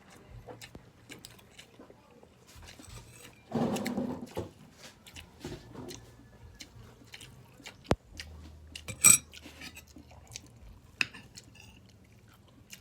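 Eating utensils clicking and scraping on a plate, with soft chewing, and a louder ringing clink about nine seconds in.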